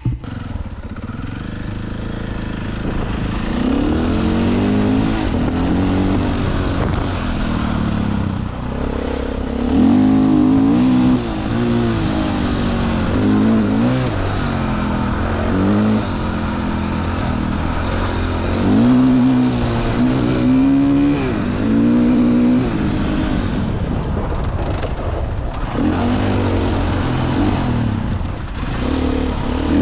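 Dirt bike engine running under way, its note climbing and dropping over and over as the throttle is opened and closed.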